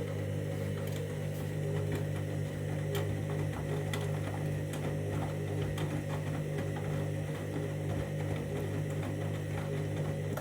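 Candy front-loading washing machine running its main wash: a steady motor hum with many small clicks and knocks from the turning drum, cutting off abruptly near the end.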